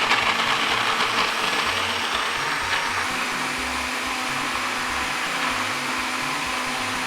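Electric countertop blender running steadily, grinding pieces of dry coconut with water into coconut milk.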